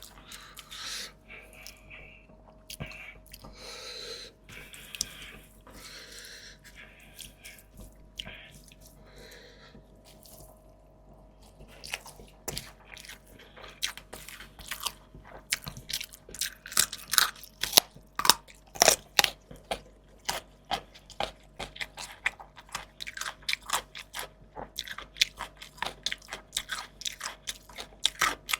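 Close-miked eating of fried fish and fresh vegetables: soft wet chewing for roughly the first twelve seconds, then rapid loud crunching as crisp food is bitten and chewed, loudest about two-thirds of the way in.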